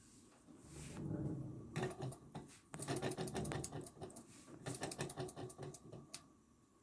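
Small Burnac Vulcan model steam engine running, a rapid mechanical clatter of clicks over a low rumble that dies away about six seconds in.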